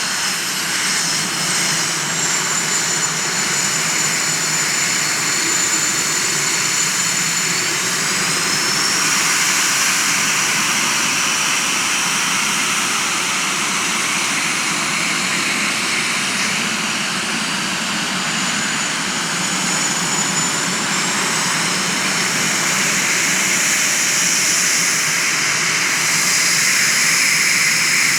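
Twin General Electric J85 turbojets of a Northrop F-5E Tiger II running steadily, with a rushing jet noise and a high turbine whine that shifts in pitch a few times.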